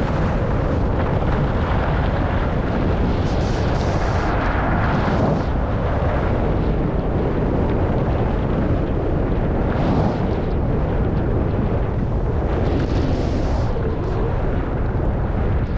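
Wind rushing over the microphone of a skier's camera while skiing downhill: a steady loud rumble, with a few brief swells of hiss, likely skis on snow.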